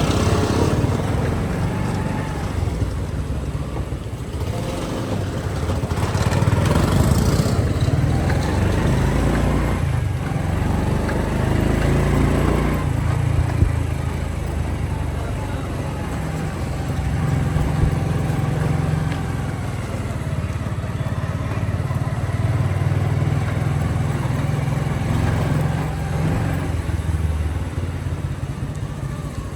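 Motorcycle engine running steadily while being ridden, its low note swelling and easing a little.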